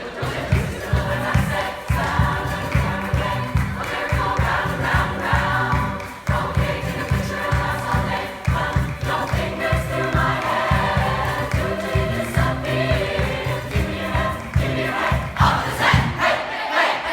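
Choir singing together over a rapid, pulsing low beat.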